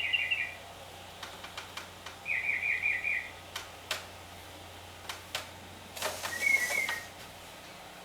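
Bird song played back from a tape recorder: a quick stuttering run of chirps at the start, another about two seconds in, and a longer call near the end, with scattered sharp clicks over a faint steady low hum.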